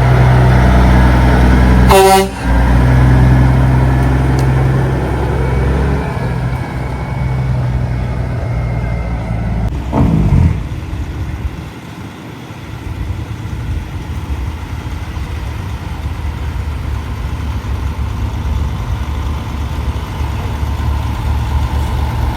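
Heavy diesel truck engines running close by, with a short truck-horn toot about two seconds in. About ten seconds in there is a brief blast that falls in pitch, and after that a steadier, fainter vehicle noise.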